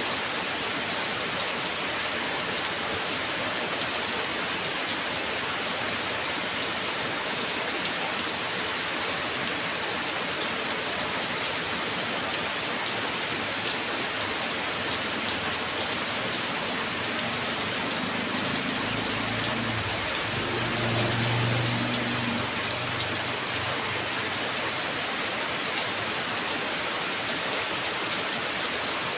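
Heavy rain falling in a steady, even hiss. About two-thirds of the way through, a low rumble of distant thunder swells for a few seconds and fades.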